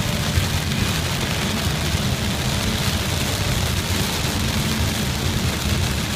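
Steady low vehicle rumble under a continuous rushing hiss, like tyres and water on a flooded road.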